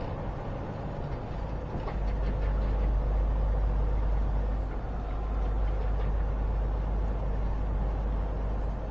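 Semi-truck cab noise while driving: a steady low engine and road rumble that grows heavier about two seconds in.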